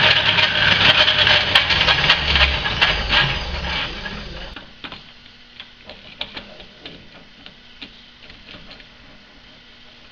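A metalworking machine running with a dense, rattling clatter that winds down and stops about four and a half seconds in. After it, only scattered light clicks and a faint steady hum remain.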